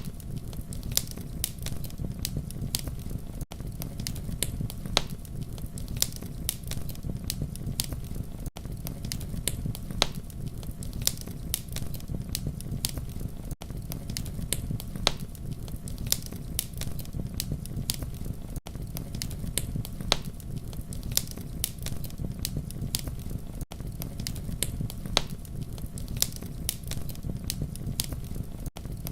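Wood campfire burning with a steady low rumble and frequent sharp crackles and pops. There is a brief dip in level about every five seconds.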